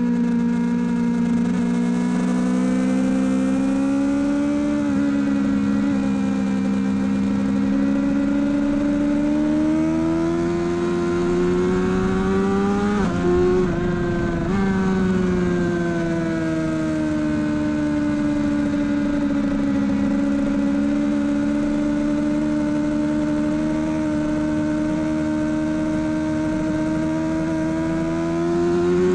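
Sport bike's inline-four engine running hard at high revs, recorded onboard over wind rush. The pitch climbs and eases with the throttle, breaks briefly about halfway through, and climbs again near the end.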